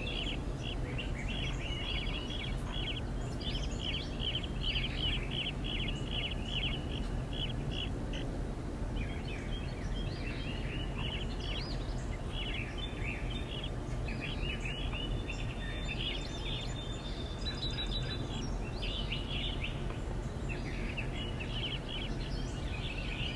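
Small songbirds chirping in quick repeated runs of short high notes, with a few longer whistled notes partway through, over a steady low background rumble.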